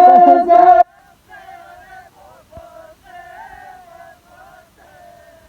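A loud voice close by breaks off abruptly under a second in. After it, faint singing voices carry on in the background.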